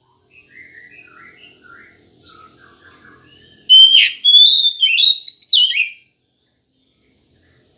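Oriental magpie-robin singing: soft, low twittering notes for the first few seconds, then a loud run of sharp whistled notes sweeping up and down, which breaks off about six seconds in.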